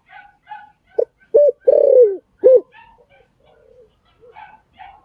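Spotted dove cooing: a phrase of four loud, low coos starting about a second in, the third long and falling in pitch. Fainter short, higher-pitched calls repeat around it.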